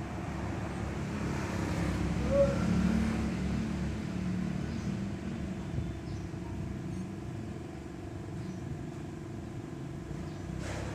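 A motor vehicle engine running with a steady low rumble, amid road traffic. A short chirp cuts in about two and a half seconds in.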